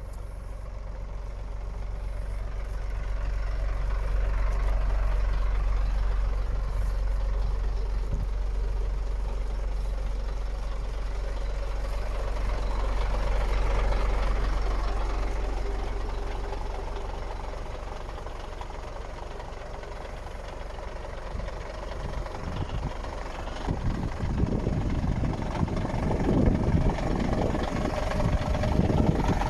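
Scania P94.220 truck's diesel engine idling steadily, its level slowly rising and falling. It gets louder and rougher in the last few seconds.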